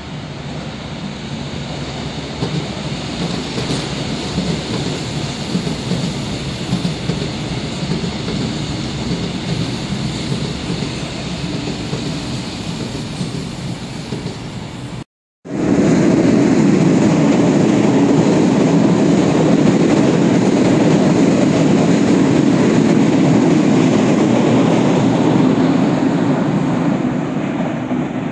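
Trains passing on the line, with steady wheel-on-rail rumble and rattle. The sound cuts out for a split second about halfway, then a second, louder train passes and eases off slightly near the end.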